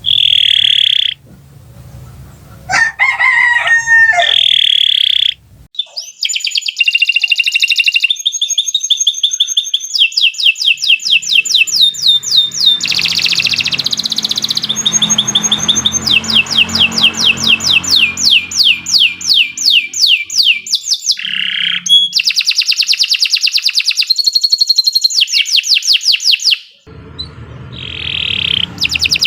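Domestic canary singing a long song of rapid trills and rolls, phrases of fast repeated high notes strung together with short breaks. A lower, bending call briefly cuts in near the start.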